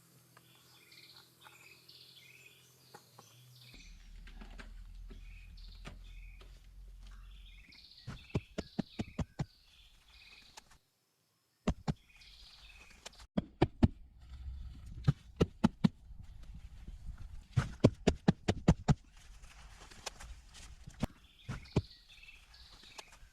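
Birds chirping, then a long series of loud, sharp knocks, several a second, coming in quick runs. These are typical of hand-tool work.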